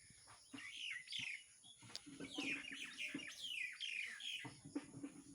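Small songbirds chirping: several short runs of quick, falling chirps, one after another.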